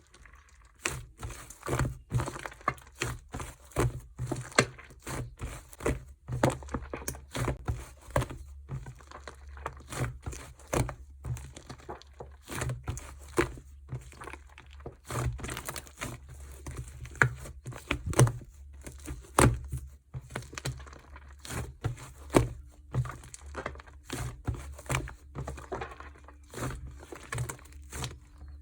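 Hands squeezing, poking and stretching a foamy slime, with irregular crackling and popping clicks as air pockets burst.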